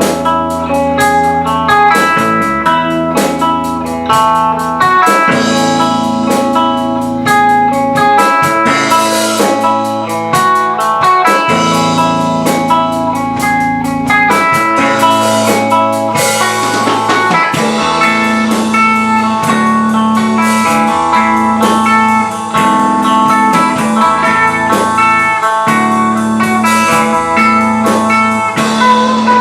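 A rock band playing: guitars over a drum kit keeping a steady beat.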